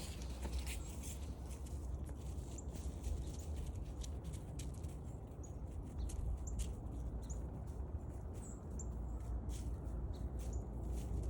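Footsteps and small crackles on a forest trail: scattered light clicks over a low steady rumble, with a few faint short high chirps.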